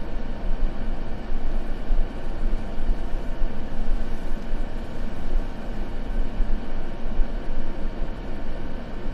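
Continuous white noise for sleep, an even, unchanging rush weighted toward a deep low rumble with little high hiss.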